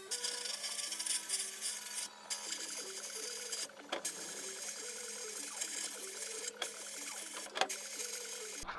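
Sandblasting cabinet blast gun running, a loud steady hiss of air and grit broken by a few brief pauses as the blast stops and restarts, over a steady hum.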